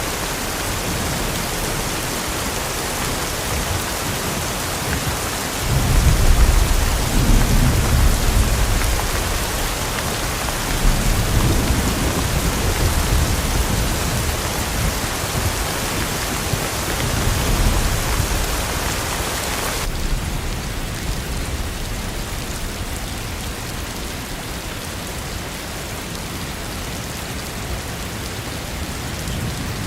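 Steady heavy rain with rolling thunder rumbling in about six seconds in and trailing off over the next twelve seconds or so. About two-thirds of the way through, the rain's hiss turns suddenly duller.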